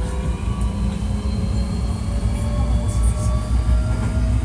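Hankyu 1300 series electric train running, with the heavy rumble of the running gear and a motor whine that rises slowly in pitch as the train gathers speed. This car is known for an unusual, distinctive sound when accelerating and braking.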